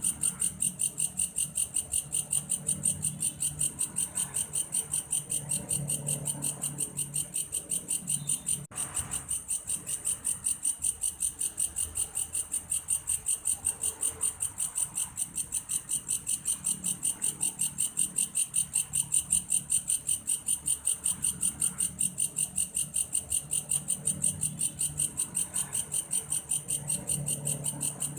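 Belalang kayu (a grasshopper) singing a steady, cricket-like pulsed trill, about four pulses a second.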